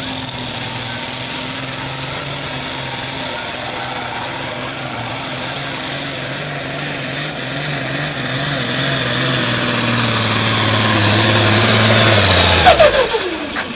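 Pro stock pulling tractor's turbocharged diesel engine running hard under load with a steady high whine, growing louder toward the end. About thirteen seconds in it drops off with a fast falling pitch and a few sharp knocks at its loudest point, as the tractor comes off the throttle at the end of the pull.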